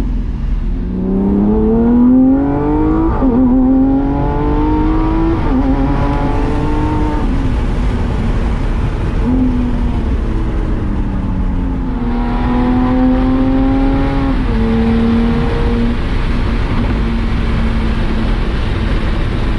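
Lamborghini Aventador SVJ's V12 engine with Balboni exhaust accelerating: the revs climb, step at a gear change about three seconds in, and climb again. It then eases off and runs at fairly steady revs, with small steps in pitch.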